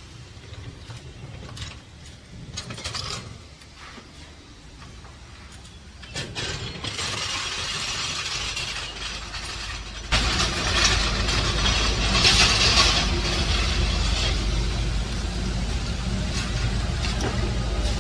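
Mitsubishi Pajero's engine running at idle, heard from underneath the vehicle. It comes in at about six seconds and jumps sharply louder at about ten seconds into a steady, even rumble. A few light clicks come before it.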